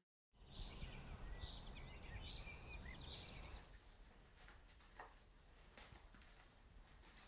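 Faint outdoor ambience with a few birds chirping, fading out after about three and a half seconds. Then near silence with a faint rustle about five seconds in.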